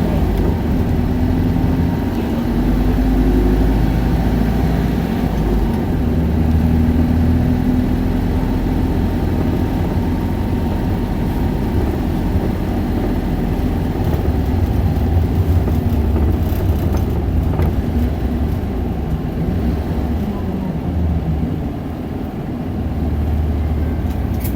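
Isuzu Erga city bus's inline four-cylinder diesel heard from inside the cabin while driving, a low engine rumble with road noise, its pitch rising and falling as the bus pulls away and eases off.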